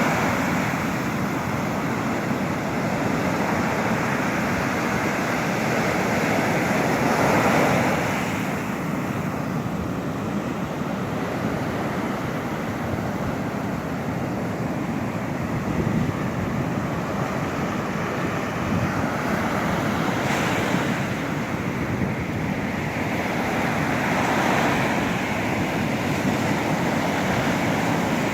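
Rough ocean surf breaking on a beach: a continuous rush of waves that swells several times as breakers come in.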